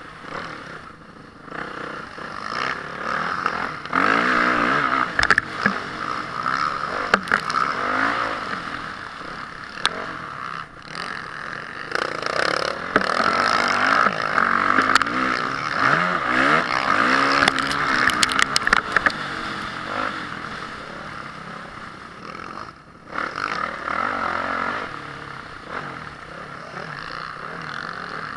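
Honda CRF450R motocross bike's single-cylinder four-stroke engine revving up and down repeatedly under race riding, with rushing wind noise and rattling clatter. The engine drops back briefly about a second in and again a few seconds before the end.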